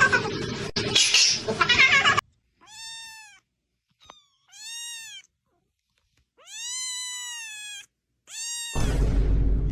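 Domestic cat meowing four times, separate pitched meows that rise then fall, the third one long and held. The first two seconds hold a denser, noisier jumble of cat-like calls, and a rough, noisy sound with a low rumble starts near the end.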